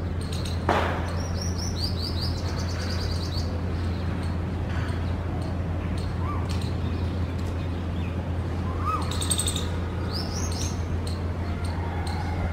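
Birds chirping in quick runs of high, rapidly repeated notes, with a few short whistled calls, over a steady hiss of rain and a low hum. A single sharp tap, the loudest moment, comes just under a second in.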